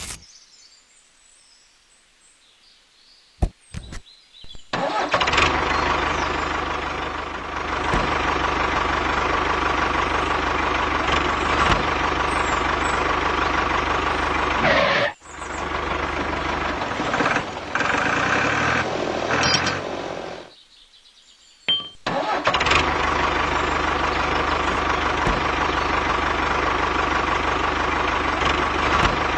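A mini DIY tractor's motor starting and running steadily, in stretches that cut off abruptly and resume. A few clicks come just before it starts.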